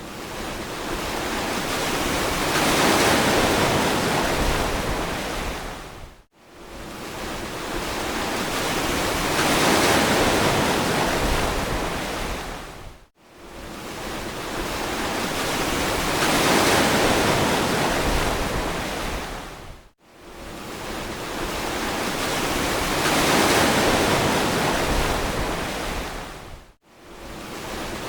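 Ocean surf washing on a beach: each wave's rush swells and then dies away, about every seven seconds. Each wash ends in a brief, sudden drop almost to silence before the next one begins.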